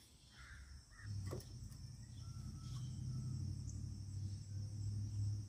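Crickets chirring steadily in the background. About a second in, a low steady hum sets in and stays the loudest sound, with a single sharp click just after it starts.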